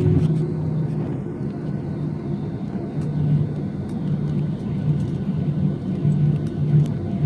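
Steady low rumble of jet aircraft engines, with a low hum that comes and goes.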